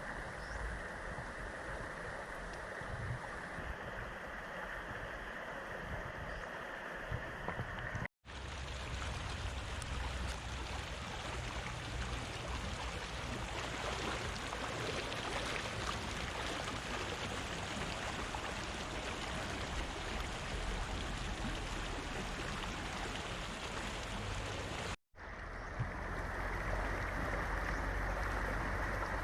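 Fast-flowing river rushing steadily, with a deep rumble underneath. The sound cuts out for an instant twice, about eight seconds in and near the end.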